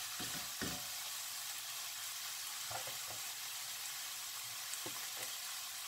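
Diced carrot, celery and onion sizzling in oil in a nonstick wok, with a silicone spatula stirring them in the first second, then a steady sizzle.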